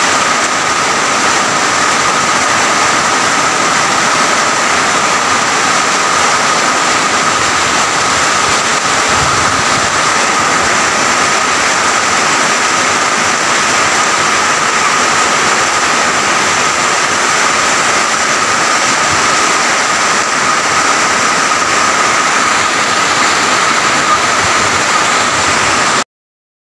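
Heavy rain pouring steadily, with a faint high whine running through it; the sound cuts off suddenly near the end.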